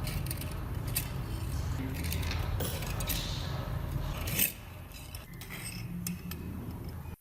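Metal parts of an old cast-iron hand meat grinder clinking and scraping as they are handled. Scattered short clicks sit over a low rumble, with one sharper clink about four and a half seconds in.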